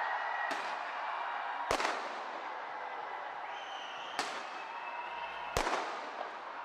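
Fireworks bursting: four sharp bangs, the loudest about two seconds in, over a steady noise that fills the gaps between them.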